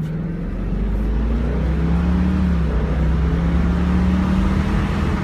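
2002 Ford Thunderbird's 3.9-litre V8 under hard acceleration: the engine note climbs, drops back briefly about halfway through as the automatic gearbox shifts up, then climbs again, growing louder.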